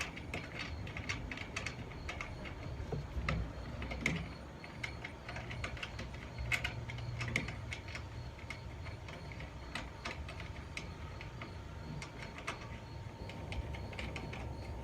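Irregular small metal clicks and ticks of boom hardware being handled as the thumb screw on a sailboat's roller-reefing gooseneck is backed out.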